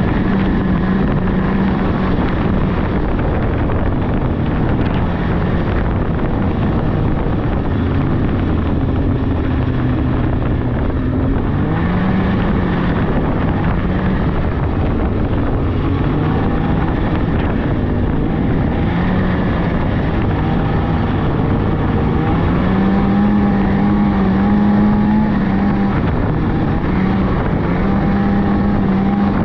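Polaris 600cc two-stroke snowmobile engine running under way, its pitch rising and falling with the throttle, with wind buffeting the microphone.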